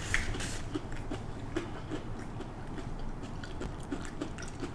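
A person chewing crispy deep-fried food with the mouth closed: a crunchy bite just after the start, then irregular small clicks and crunches as the jaw works.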